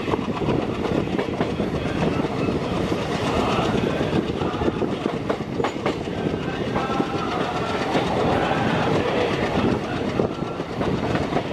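Indian Railways passenger coach running at speed, its wheels clattering over the rail joints under a steady rumble of running noise.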